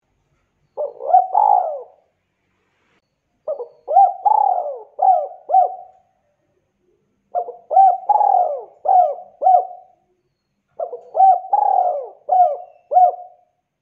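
Spotted dove (tekukur) cooing: four repeated coo phrases a few seconds apart, each a short run of rising-and-falling notes.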